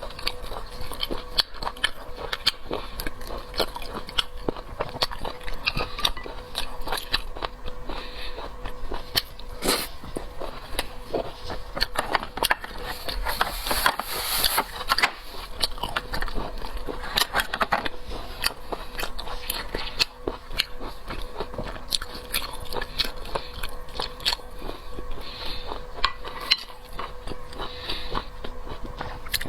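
Close-miked mukbang eating of seafood: biting and chewing with many small wet clicks and crunches, a busier stretch about halfway through, over a faint steady hum.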